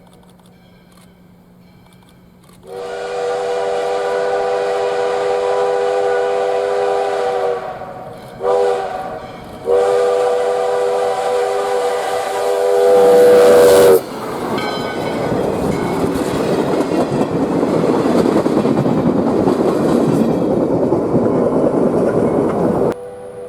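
US Sugar steam locomotive No. 148's steam whistle blowing a long blast, a short one and another long one, the last rising slightly in pitch before it stops. The locomotive then rushes past close by with a loud, steady noise of steam exhaust and wheels that cuts off suddenly near the end.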